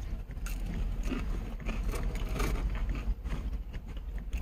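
Chewing and small eating sounds, soft clicks and mouth noises, over a steady low rumble in a truck cab.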